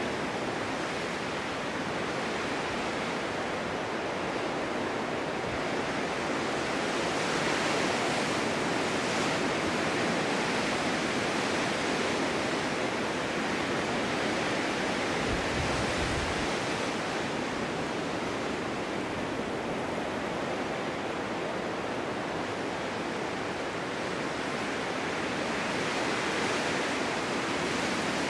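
Snowstorm wind blowing in a steady rushing hiss that swells and eases in slow gusts.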